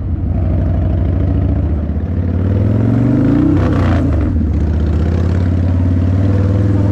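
Harley-Davidson motorcycle engine running while riding. The pitch climbs as it revs up from about two and a half seconds in, drops back near four seconds, then settles into steady running.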